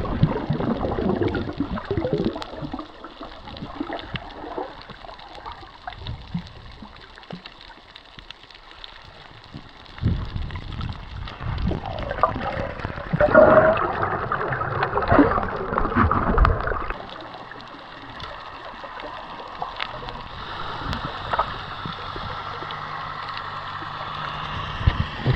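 Water gurgling and splashing in uneven surges, loudest in the middle stretch.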